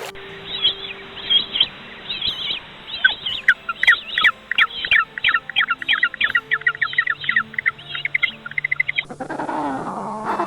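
A bird chirping in a fast series of short, high notes that come quicker and louder from about three seconds in. Near the end the sound switches to a different pitched, gliding call.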